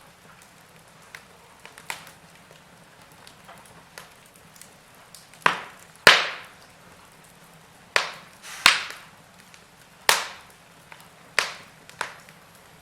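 Log fire crackling: sharp pops of burning wood, sparse at first and then coming every second or so in the second half, the loudest about six seconds in, over a faint steady hiss of the flames.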